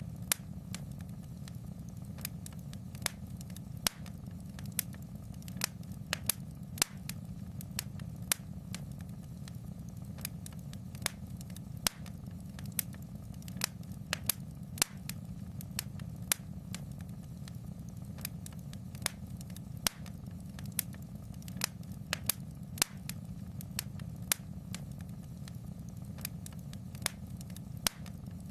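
Wood fire crackling in a fireplace: irregular sharp pops and snaps, about one or two a second, over a steady low rumble.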